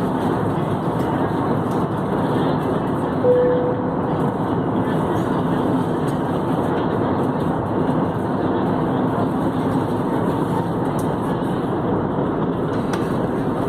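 Steady roar of a jet airliner's cabin noise, the engines and airflow heard from inside the cabin, with a faint steady hum under it. A single short tone sounds briefly about three seconds in.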